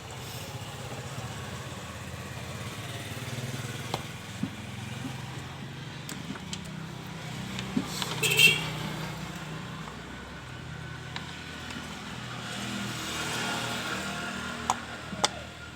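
Steady hum of vehicle engines in the background, with scattered light clicks and knocks and one short high squeak about halfway through.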